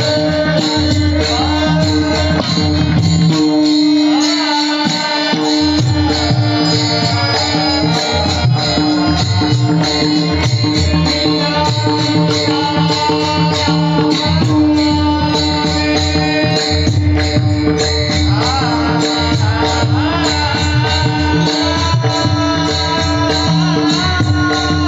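Devotional bhajan music: a male voice singing melodic phrases over a steady drone, with mridang drumming and jingling percussion.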